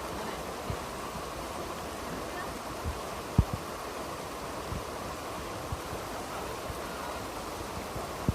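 Steady rushing outdoor noise with a few soft low thumps, the loudest about three and a half seconds in.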